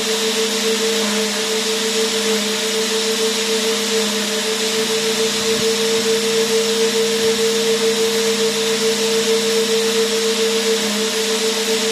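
Vacuum cleaner motor running continuously: a steady whine holding one pitch over an even rushing hiss of air, with no change in speed.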